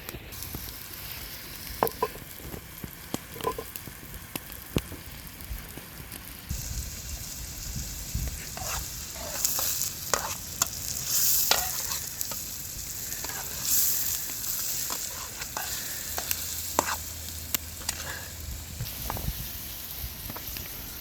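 Food sizzling as it fries in a pan, with a utensil stirring and clicking against the pan. The sizzling grows louder about six seconds in.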